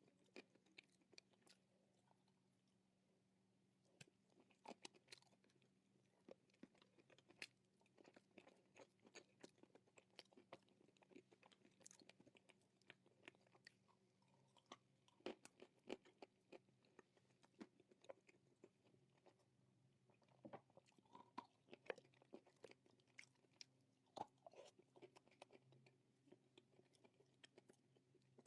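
Close-up crunching and chewing of dry roasted Nakumatt clay: many short crisp crunches, with a pause of about two seconds near the start.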